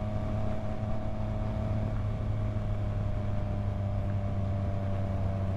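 Yamaha MT-09's three-cylinder engine running at a steady, unchanging pitch while cruising, over a steady rush of wind noise.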